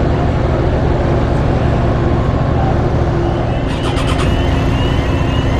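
Engine idling steadily, with a brief cluster of clicks and a faint rising whine about four seconds in.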